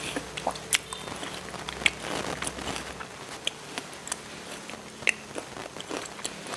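Close-miked chewing of crisp, juicy bilimbi (belimbing wuluh) fruit: wet mouth clicks and small crunches, with a few sharper ones about one, two and five seconds in.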